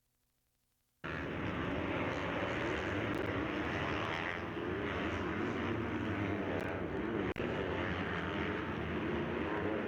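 Near silence for about the first second, then motocross bike engines running hard on the track, several overlapping in a steady drone.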